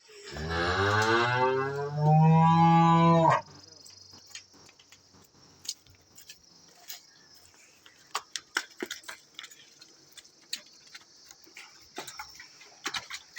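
A cow mooing once, a long call of about three seconds that drops in pitch and then holds steady and louder before cutting off. After it come faint, scattered clicks.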